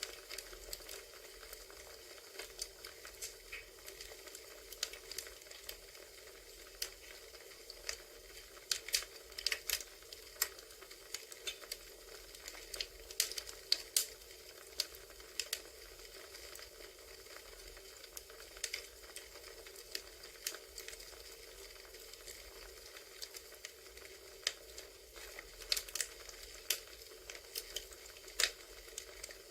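Recorded campfire ambience: wood fire crackling, with irregular sharp pops and snaps over a steady soft hiss.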